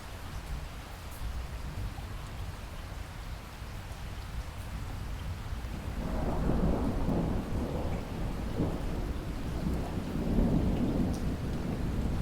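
Steady rain falling in a rainstorm, with a low rumble of thunder rolling in about halfway through and continuing.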